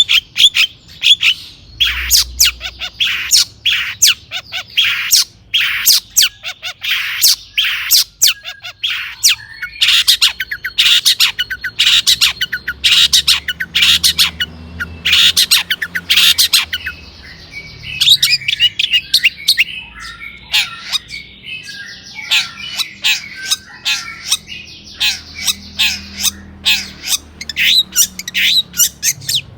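Long-tailed shrike (cendet) singing: a fast, loud string of sharp, harsh notes, several a second. Past the halfway point it shifts into a softer, continuous warbling chatter before the sharp notes return near the end.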